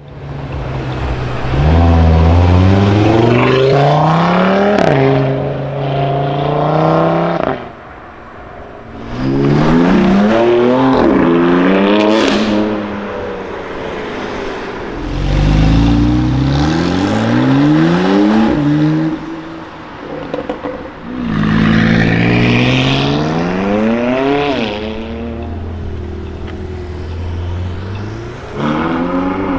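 High-performance car engines accelerating hard away, in about four separate runs: the engine pitch climbs, drops back sharply at each gear change and climbs again.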